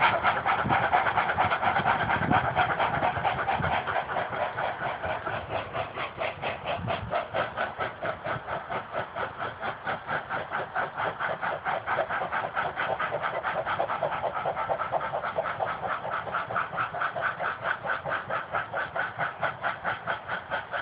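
Steam locomotive working, its exhaust beating in a fast, even rhythm that grows fainter over the first several seconds and then holds steady, with a few low thumps near the start.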